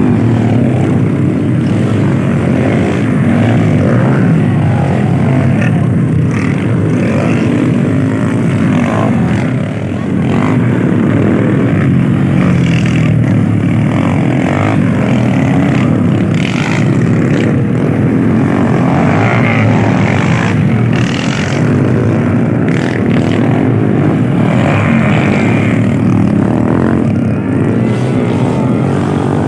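Motocross dirt bike engines running loud and revving up and down.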